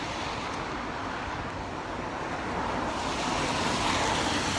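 Road traffic passing on a wet road: a steady rush of tyre hiss that swells near the end as a vehicle approaches.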